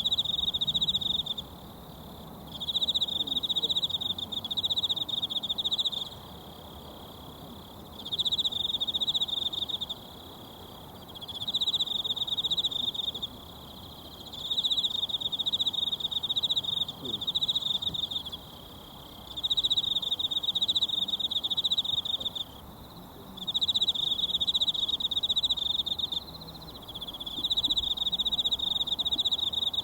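An insect trilling in a high buzzing chirr, repeated in bouts of two to four seconds with pauses of about a second, about eight bouts in all. A faint steady murmur of a mountain stream runs beneath it.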